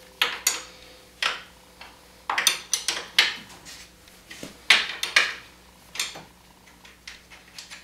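Hand wrench on a suspension bolt: irregular metallic clicks and clinks as the wrench is worked and refitted on the bolt head and nut, some strikes coming in quick pairs.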